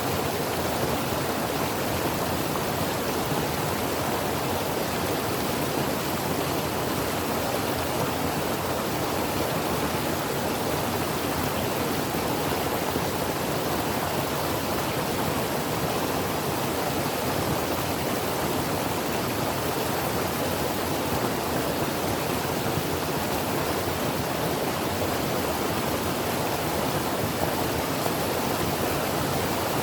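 Creek water flowing over rocks: a steady, even rush with no breaks.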